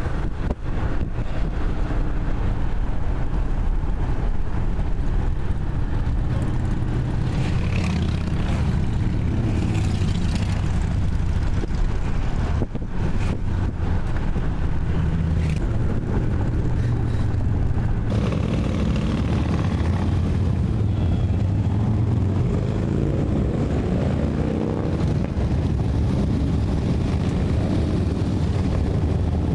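Motorcycle engines running in rally traffic, a steady low drone with pitch rising and falling as they rev up, most clearly in the last third.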